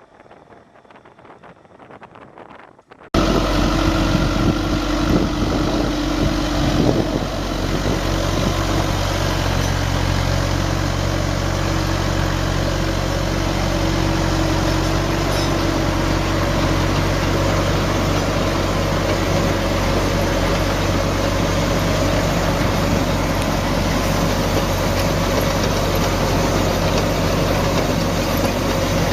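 A faint, quiet stretch, then, about three seconds in, a heavy machine engine cuts in abruptly and runs loud and steady at an even pitch.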